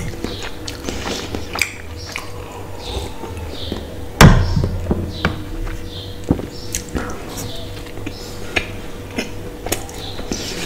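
Close-miked eating sounds: chewing and wet mouth smacks with many small clicks, and one loud thump about four seconds in.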